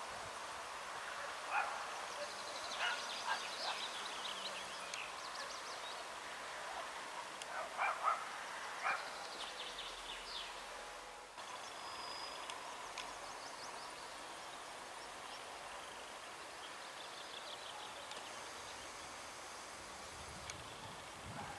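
Birds chirping and trilling, with a few louder, sharp calls in the first nine seconds, over a faint steady outdoor hiss.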